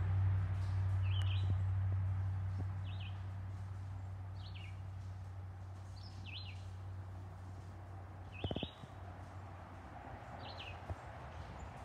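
A bird repeating a single short chirp about every one and a half to two seconds, over a low rumble that fades away during the first few seconds. A brief rattle of clicks comes about eight and a half seconds in.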